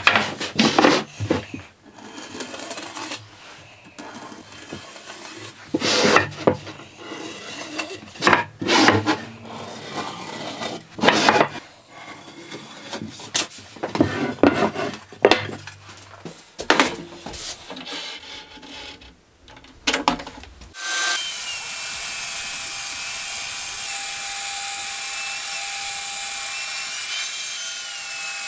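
Hand woodworking on timber: irregular rubbing strokes and knocks, like sanding or filing. About 21 seconds in, a power tool starts and runs steadily with a high whine.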